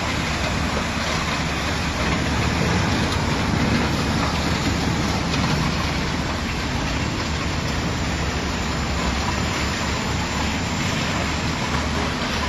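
Tracked mobile impact crusher running: a steady, dense rattling din over a low engine hum.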